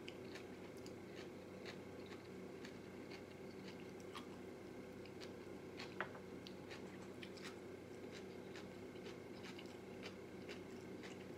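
Faint chewing of coleslaw, with scattered light clicks of a fork in a small cup; one sharper click about six seconds in. A low steady hum sits underneath.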